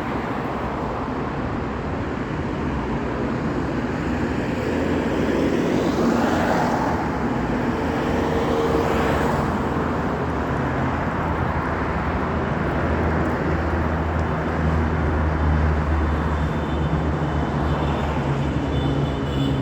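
Steady street traffic noise, with a louder vehicle passing about six to nine seconds in.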